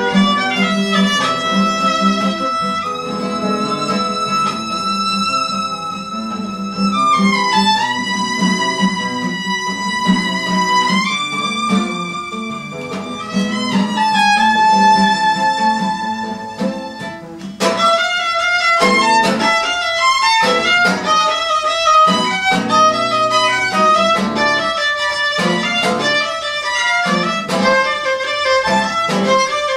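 Violin playing a melody over an accompaniment: long held notes with slides between them, then quicker, shorter notes from a little past halfway.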